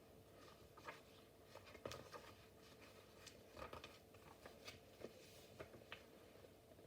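Near silence with a few faint rustles and taps scattered through it, like a paper picture book being handled and opened, over a faint steady hum.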